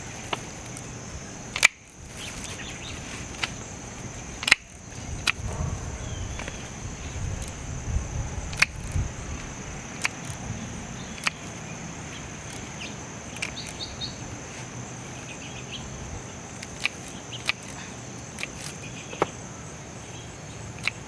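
A steady, high-pitched chorus of crickets drones throughout. Over it come about a dozen scattered sharp snips from hand pruners cutting back dead plant stems, with some rustling of foliage.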